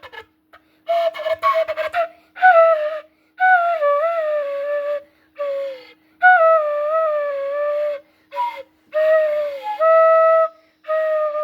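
Flute playing a slow melody in short phrases of held, wavering notes, with a deliberately breathy hiss over the tone. The hiss is the fault of poor blowing into the embouchure hole.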